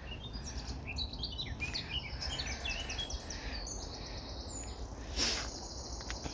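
Songbird singing: a run of quick, varied high chirps and whistles, then a held high trill from about four seconds in, over a low steady rumble. A brief noise about five seconds in.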